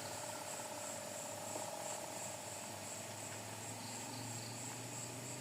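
Night insects such as crickets trilling steadily: a high, evenly pulsing chirr with a lower, fainter trill beneath it.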